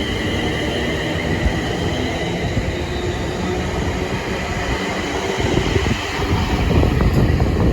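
Train running on the rails, with a high wheel squeal that fades away over the first few seconds over a steady rumble. The low rumble grows louder near the end.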